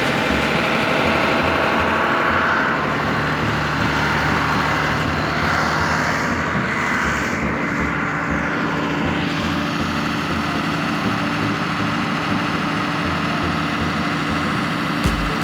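Small electric motor of a toy tractor running with a steady buzzing drone.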